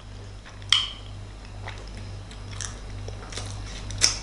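A person chewing a mouthful of kimbap, a rice-and-seaweed roll, with small scattered mouth clicks and crackles, the sharpest about a second in and near the end, over a low steady hum.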